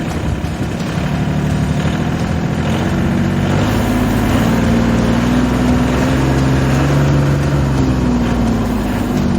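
Engine of an EG220 farm machine running, its pitch rising a few seconds in as the throttle is opened, then holding at a higher speed with a shift near the end.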